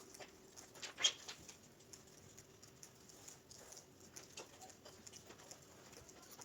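Light taps of hand tools on tile: faint scattered clicks, with one sharper tap about a second in.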